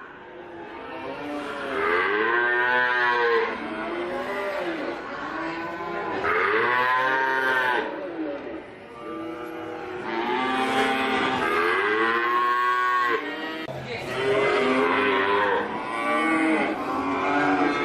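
Cattle mooing over and over: long calls that rise and then fall in pitch, one after another with hardly a break, some overlapping at different pitches as if from more than one cow.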